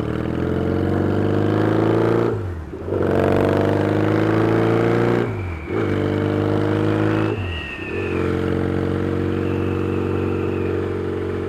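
Yamaha XS650 parallel-twin engine on loud baffled exhaust pipes, accelerating: the pitch climbs three times, each run broken by a brief dip as a gear is changed, then holds steady at a cruise for the last few seconds.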